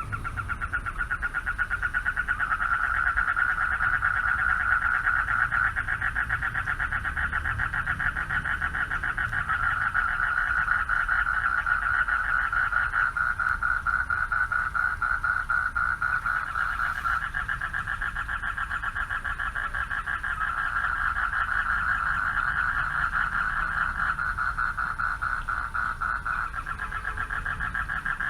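A chorus of male frogs calling for mates at night: a dense, fast-pulsing, continuous trilling that rises and falls slightly in strength without stopping.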